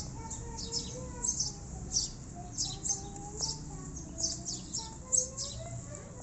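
Small birds chirping: quick, short, high chirps repeating several times a second.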